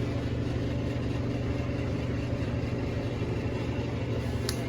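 An engine idling, a steady low hum that holds one pitch, with a faint click near the end.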